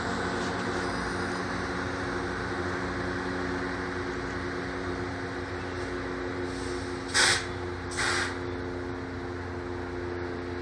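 Loram rail grinder train running steadily, a constant engine hum under a broad mechanical noise. Two short bursts of air hiss come about seven and eight seconds in.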